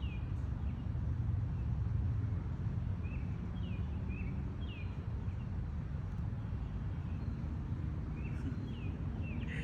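Birds chirping in short, repeated notes, heard in small groups of two or three, over a steady low rumble.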